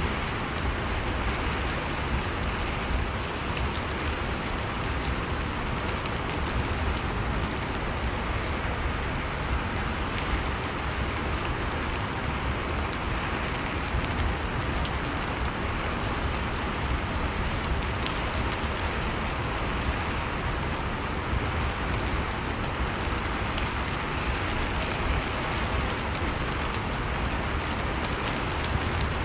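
Steady rain falling on a surface, an even wash of rain noise with faint scattered drop ticks.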